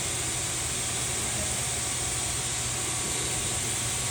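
Pressure washer spraying water onto the car body: a steady, even hiss of the jet over a low hum.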